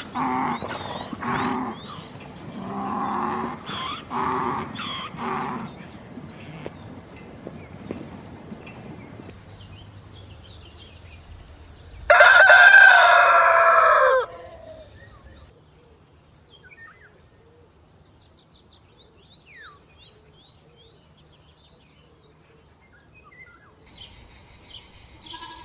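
Chickens calling in a run of short, repeated calls, then a rooster crows once, loudly, for about two seconds; faint small bird chirps follow.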